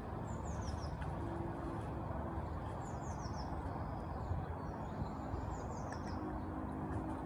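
Small songbirds singing in short phrases of quick, high, falling chirps, repeated every couple of seconds, over steady low outdoor background noise.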